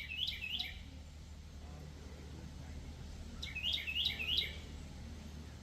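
A songbird singing two short phrases, each of three or four quick repeated notes, one at the start and one about three and a half seconds in, over a low steady hum.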